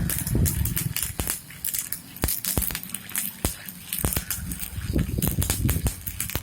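Stick-welding arc with a 4 mm Super One electrode on steel plate, crackling and popping irregularly over a steady hiss.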